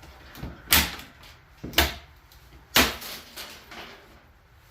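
Three sharp wooden knocks about a second apart, from the boards of a nailed-together wooden shipping crate being struck or worked loose while it is opened.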